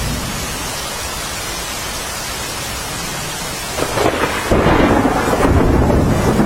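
Steady rain, then a low rumble of thunder that rolls in about four seconds in and runs on, louder than the rain.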